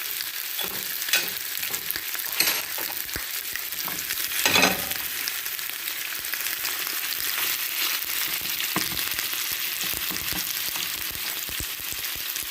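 White fish, prawns and squid sizzling in olive oil in a frying pan: a steady crackling hiss, with a few brief knocks of the pan or utensil, the loudest about four and a half seconds in.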